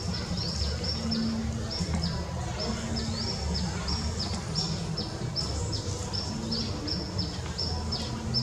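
A bird chirping steadily, about three short high chirps a second, each dipping in pitch, over a low rumble.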